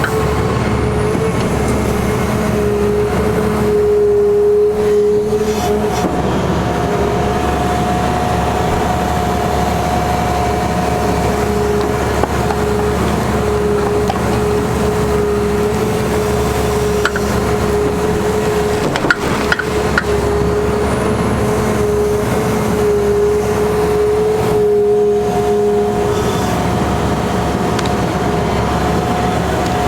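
Caterpillar 336E excavator's diesel engine running steadily, with a steady whine over the low rumble. A second, higher tone comes in and drops out at times, and a few sharp knocks fall past the middle.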